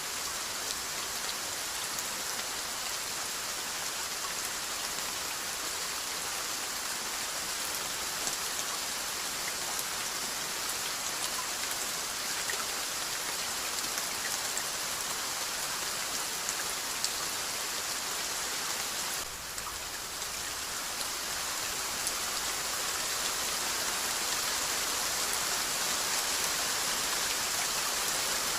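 Steady rainfall: a continuous hiss of rain with scattered drop ticks. There is a brief dip about two-thirds of the way through, after which the rain is slightly louder.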